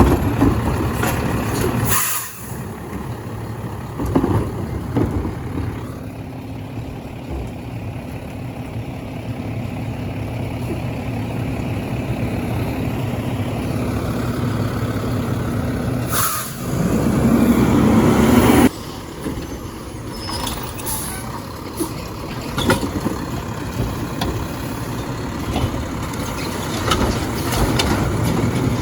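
Garbage truck's diesel engine running steadily. About two-thirds of the way through, a loud hiss of about two seconds cuts off sharply.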